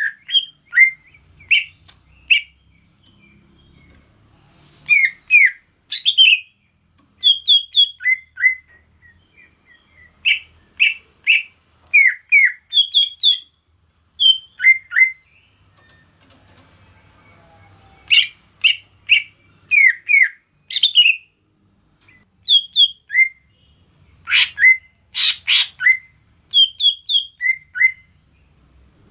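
Cucak ijo (greater green leafbird) singing in clusters of short, sharp chirps and quick whistled notes, with brief pauses between phrases. A steady high-pitched hiss runs underneath.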